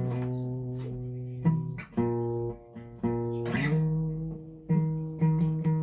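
Guitar playing chords, each one struck and left to ring. The chord changes several times, and near the end the strums come quicker, about two a second.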